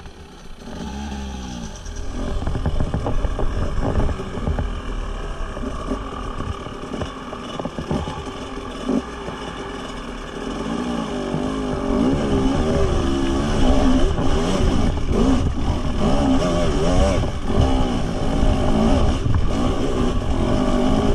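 Husqvarna TE 300 two-stroke single-cylinder enduro motorcycle engine running under throttle, its pitch rising and falling again and again as the throttle is worked. It gets louder about two seconds in, and the pitch swings grow stronger from about halfway through.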